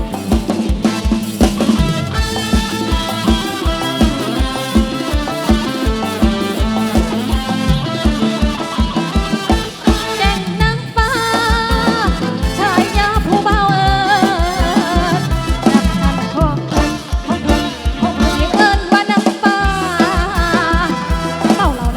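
Isan folk-style dance music played loud through a rot hae sound-truck system, driven by a fast, steady kick-drum beat. A wavering lead melody comes in about halfway through.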